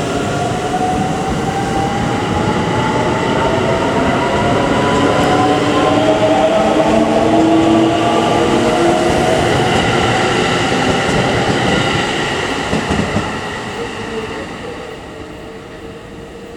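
JR West 681/683-series electric limited express train accelerating, its traction motors giving a whine that rises in pitch over wheel and rail rumble, then fading away over the last few seconds.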